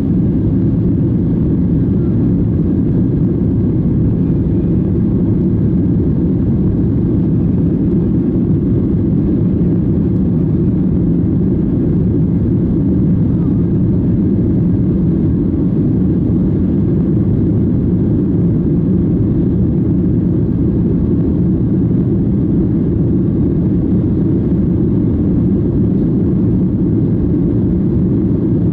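Steady low roar inside the cabin of a Boeing 737-800 under way: its CFM56 turbofan engines and the rush of air around the fuselage, constant in level with no distinct events.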